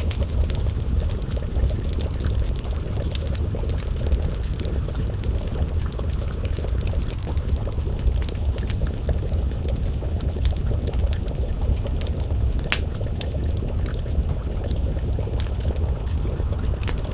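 Wood fire crackling, with many scattered sharp pops and one louder snap about 13 seconds in, over a steady low rumble. A pot of stew simmers and bubbles over the flames.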